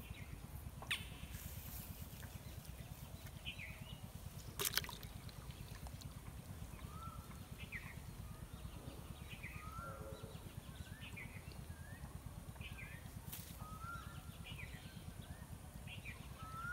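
Outdoor ambience of a steady low rumble, with short bird chirps repeating every second or so from about seven seconds in. Two sharp clicks stand out, one about a second in and a louder one just before the five-second mark.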